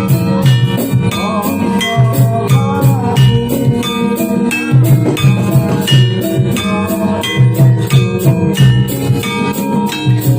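Jathilan dance accompaniment music: Javanese gamelan-style ensemble with sustained pitched metal notes over a repeating drum pattern and a fast, steady high percussive beat.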